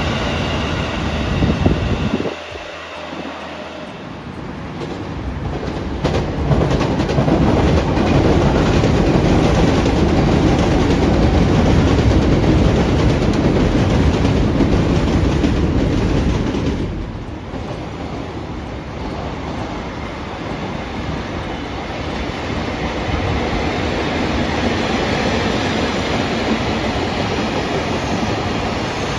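A train passing at close range. It is loudest through the middle stretch and drops away sharply about seventeen seconds in, running on more quietly after that.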